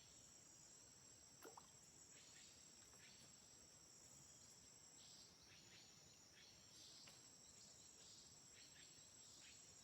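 Faint, steady high-pitched chorus of insects, such as crickets, trilling continuously in the rainforest, with a brief soft sound about a second and a half in.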